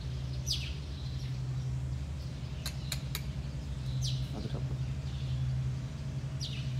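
A bird gives a short, high, falling chirp three times, a few seconds apart, over a steady low hum. A quick run of three clicks comes in the middle.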